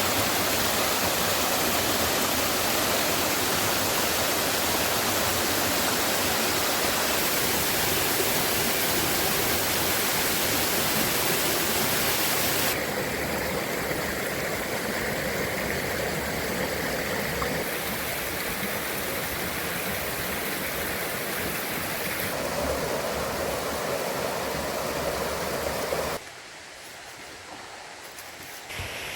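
Rushing water of a creek running high after heavy rain, a steady loud rush that drops abruptly in level about 13 seconds in and again near the end.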